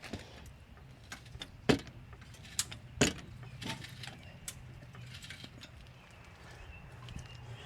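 Scattered metallic clicks and knocks of hand tools and fasteners at work on the car, the sharpest about three seconds in, over a faint steady low hum.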